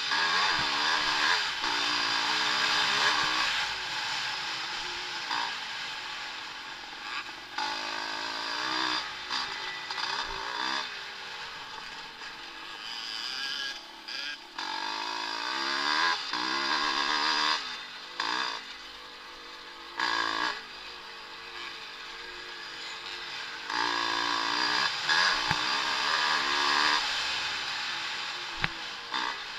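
Vintage motocross motorcycles racing, their engines repeatedly revving up and dropping back as they accelerate and shift. The engines are loudest near the start, about halfway through and again near the end.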